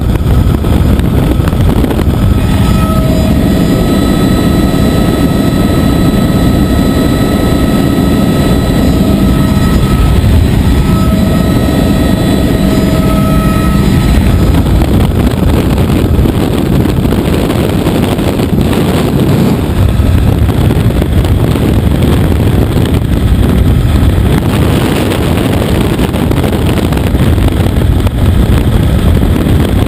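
Helicopter in flight: steady, loud rotor and engine noise. A steady high whine rides on top from a couple of seconds in until about halfway, breaking off briefly once.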